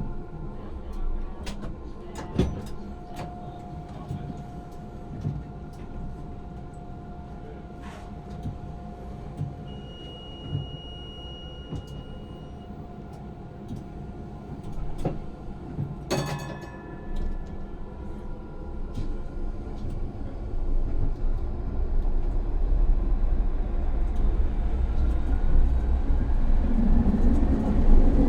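Electric tram at rest with scattered clicks, a short high beep and a sharp ringing clunk about halfway through, then pulling away: a rising motor whine and building wheel-on-rail rumble over the last several seconds.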